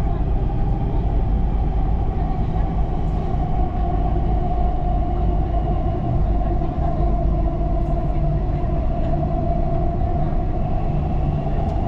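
Dubai Metro train running between stations, heard inside the carriage: a steady rumble of wheels on the rails under a steady whine, with a higher whine coming in near the end.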